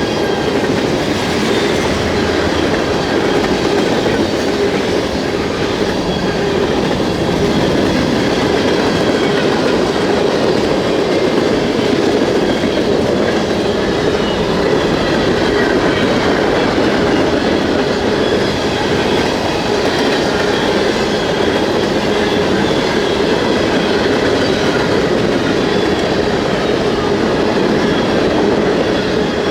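Freight train cars rolling steadily past at close range, a continuous rumble and rattle of wheels on rail, with faint thin high tones of wheel squeal.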